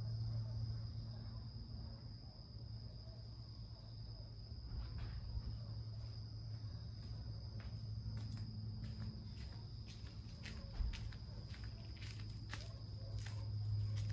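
Insects, crickets among them, chirping steadily in a high, fast pulsing trill. From about five seconds in, a scatter of irregular sharp crackles and clicks joins them.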